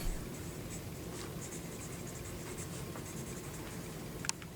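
Pen scratching faintly on paper, as in writing a diary entry, with one sharp click near the end.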